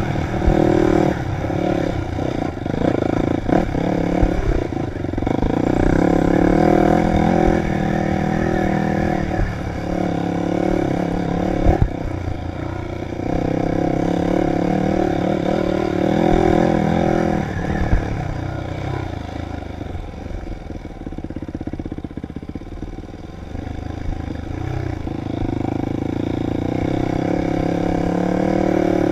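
Dirt bike engine revving up and down with the throttle as it rides an enduro trail, with a few sharp knocks and clatter from the bike over rough ground. The engine drops lower and quieter for a few seconds past the middle, then picks up again.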